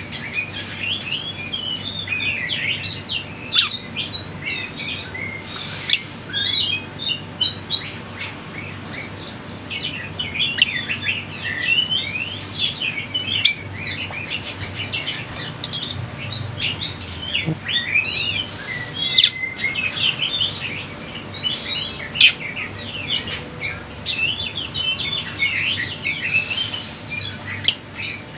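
A busy chorus of tledekan gunung birds, many of them twittering and chirping at once in quick, high, overlapping notes.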